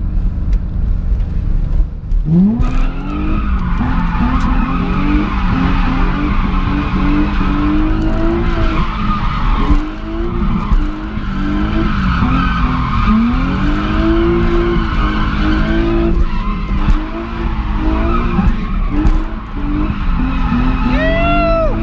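Car engine revving up and down again and again under full throttle, heard from inside the car, with the tyres squealing and skidding as it drifts in second gear. A few sharp falling tyre chirps come near the end.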